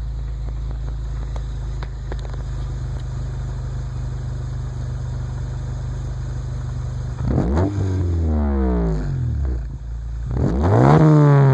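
1993 Honda Civic CX's 1.6-litre D16Z6 four-cylinder idling steadily through a Yonaka exhaust and a test pipe with no catalytic converter. It is then revved twice, about seven and ten seconds in, each rev climbing sharply and falling back toward idle.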